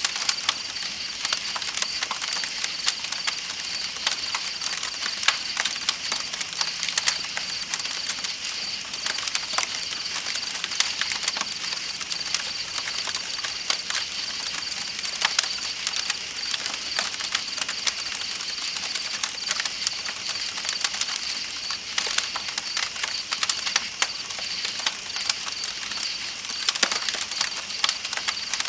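Campfire crackling with frequent sharp, irregular pops, over a steady high-pitched trill of night insects and an even hiss of flowing river water.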